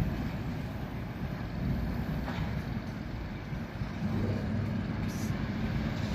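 2TE116 diesel locomotive's V16 engine running under load as the train pulls away, a steady low rumble that grows louder and rises in pitch about four seconds in.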